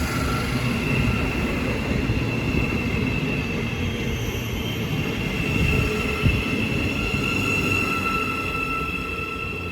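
Thameslink Class 700 electric multiple unit running on the track, a steady rumble with a steady high whine over it, easing slightly near the end.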